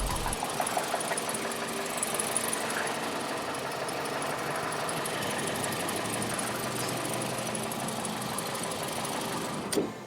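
A machine's motor running steadily, with one sharp click near the end.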